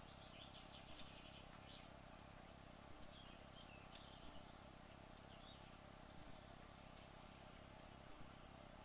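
Near silence: a faint steady hum with soft, irregular high chirps and a few light ticks.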